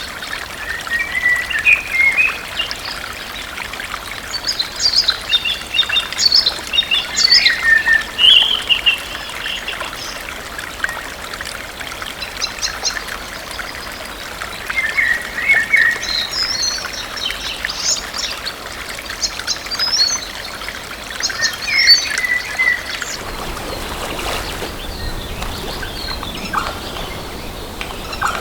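Songbirds calling and singing in short repeated phrases over steadily running water. A little after three quarters of the way through, the birds stop and the water changes to a lower, fuller rush.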